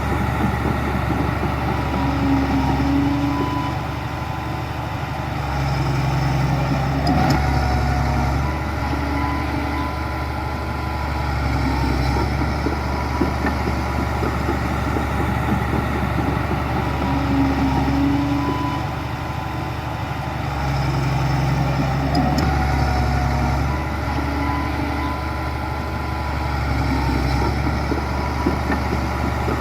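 Heavy diesel engine of earthmoving machinery running continuously, its level swelling and easing every several seconds as it works under changing load.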